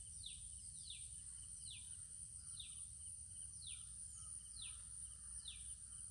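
A bird repeating a short, high, falling call roughly once a second, over a steady high-pitched hiss and a faint low rumble of outdoor ambience.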